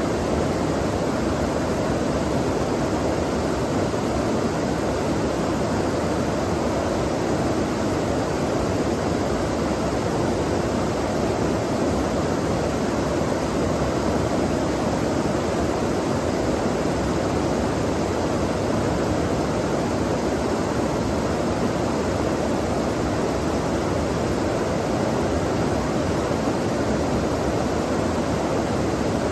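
Flowing water of a stream rushing steadily, an even, unchanging wash of sound.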